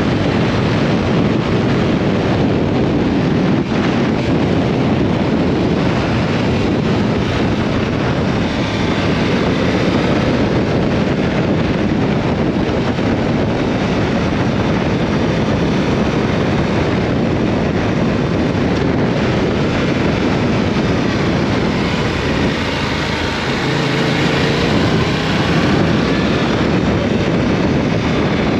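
Yamaha R7's parallel-twin engine running at riding speed, mixed with heavy wind rush on the microphone, with the pitch shifting slightly as the revs change.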